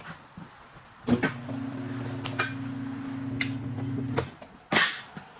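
A machine motor runs with a steady hum for about three seconds, starting with a sharp clack and cutting off abruptly, followed by another sharp noise near the end.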